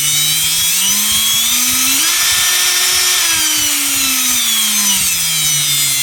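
Parkside cordless drill motor running under its repaired trigger speed control. The speed climbs in steps to a peak about two to three seconds in, then winds back down. The speed changes in discrete steps rather than smoothly.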